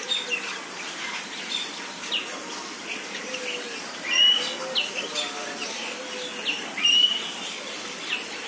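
Many small birds chirping together, short overlapping calls, with two louder flurries of chirps about four and seven seconds in.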